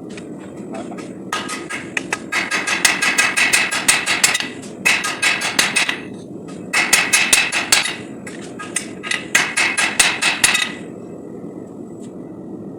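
Hand hammer striking hot 5160 steel on an anvil to forge a knife blade: four runs of rapid ringing blows with short pauses between them. A steady low rumble runs underneath.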